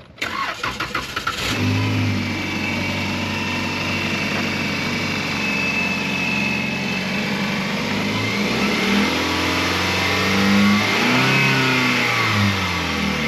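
Chevrolet Colorado pickup's engine cranking on the starter for about a second and a half, catching, and settling into a steady idle. Near the end it is revved up and down a few times, with a thin high whine alongside the engine.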